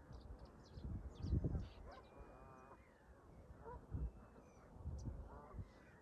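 Canada geese honking, mixed with short high chirps of smaller birds. Gusts of wind buffet the microphone with low rumbles, loudest at about a second and a half in and again near four and five seconds.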